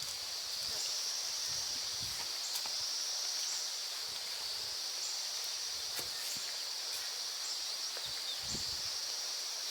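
Steady high-pitched insect chorus, swelling and easing every couple of seconds, with a few faint low thuds and light rustling.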